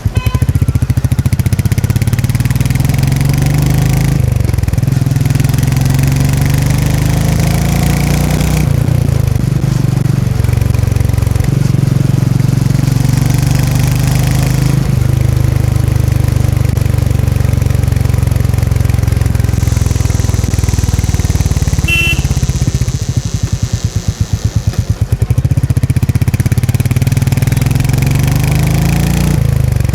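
Royal Enfield Meteor 350's single-cylinder engine and exhaust running under way, its pitch stepping up and down with throttle and gear changes. Near the end the revs drop back briefly, then pick up again.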